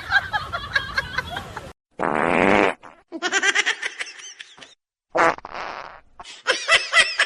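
Two short, buzzy fart-like noises, with quick runs of high, pitched vocal sounds between and after them.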